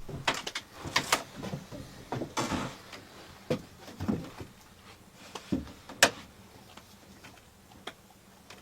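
Irregular knocks, clicks and short scrapes, busiest in the first few seconds, with one sharp knock about six seconds in, then a few faint ticks.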